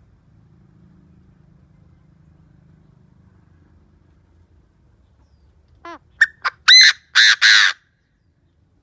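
Chinese francolin decoy bird calling: a loud series of about six harsh notes near the end, opening with a short, quieter sweep and ending on two longer notes. This is the cock's territorial call, used to provoke wild francolins.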